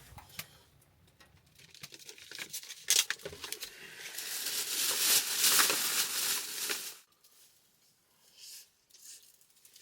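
Shrimp sizzling and crackling on a hibachi grill, the hiss building with sharp pops and then cutting off suddenly about seven seconds in, leaving a few faint ticks.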